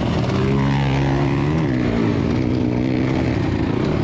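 Dirt bike engine running with its pitch steady. It swells up briefly about a second and a half in, then drops back.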